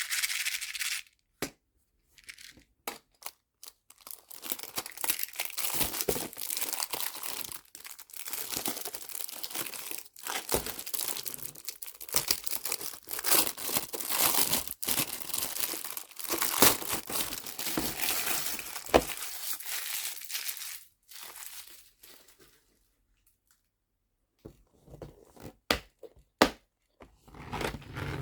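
Crinkling and rustling of packaging as nail charms are unpacked, a long dense stretch through most of the middle, with scattered sharp clicks and taps before it and again near the end.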